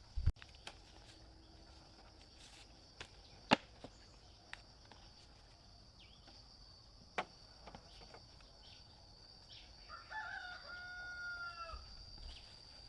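A rooster crowing once near the end, a single call of nearly two seconds. Underneath is a steady high insect drone, with a few sharp knocks earlier on.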